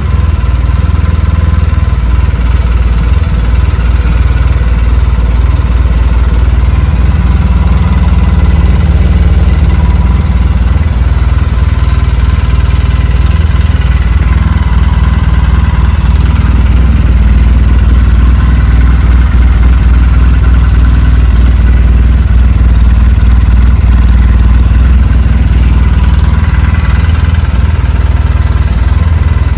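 800 cc quad ATV engine idling steadily just after a cold start, having sat since winter on old gas.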